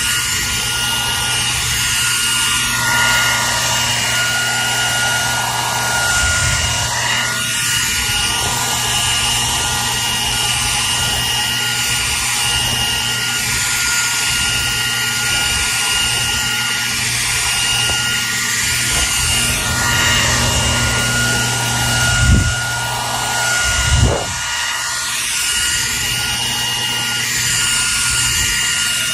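Hair dryer running steadily: a constant rush of blown air with a steady high whine and a low motor hum. Two brief low thumps about 22 and 24 seconds in.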